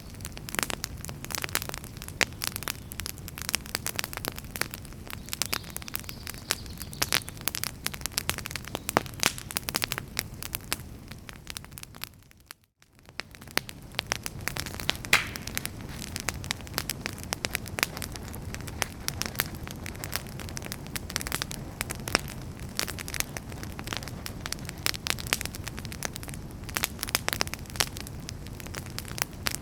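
Wood fire in a fireplace crackling and popping, dense sharp crackles over a steady low rush. About twelve seconds in it briefly fades almost to silence, then comes back.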